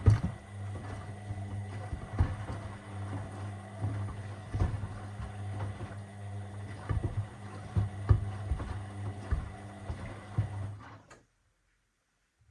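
Washing machine running with a steady low hum as the drum turns, sneakers knocking against the drum at irregular intervals. The sound cuts off abruptly about eleven seconds in.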